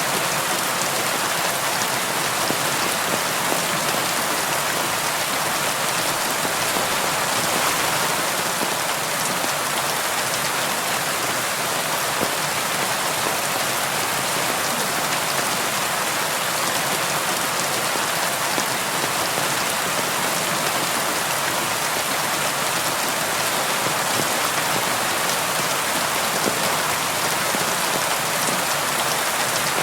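Steady rain pattering on window glass, an even hiss of many fine drop ticks with no lulls or thunder.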